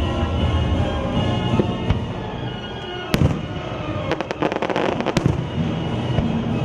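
Aerial fireworks going off: a single sharp bang about three seconds in, then a quick run of crackling pops a second later, over music playing on loudspeakers.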